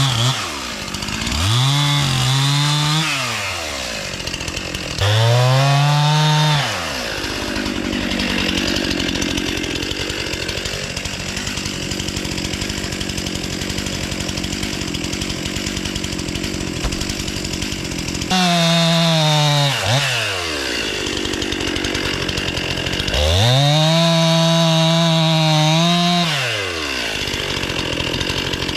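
Two-stroke Stihl chainsaw revved to full throttle in short bursts and dropping back toward idle several times. In the middle stretch it runs steadily under load, cutting into a log.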